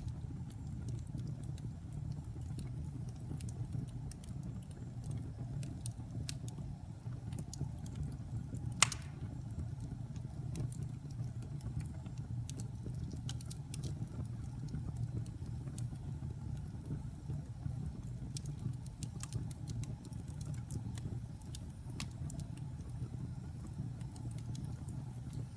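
Wood fire burning in a fireplace: a steady low rumble with scattered small crackles and one sharp pop about nine seconds in.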